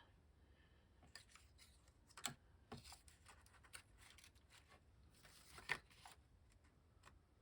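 Faint handling of paper pieces: scattered light taps and rustles, with the sharpest ticks about two seconds in and again near six seconds.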